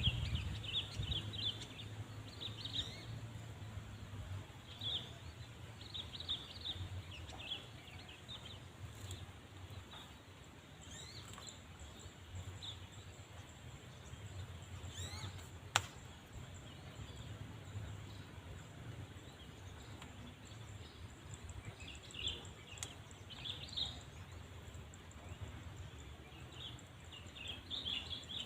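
Small birds chirping in short bouts of quick high twittering, over a steady low background rumble, with one sharp click about halfway through.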